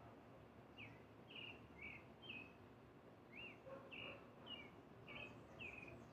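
Faint birdsong: a bird repeating short notes, some gliding up or down in pitch, about two a second from about a second in, over low background noise.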